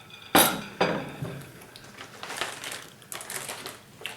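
Things being moved about on a table: a sharp knock, then several lighter knocks and clinks.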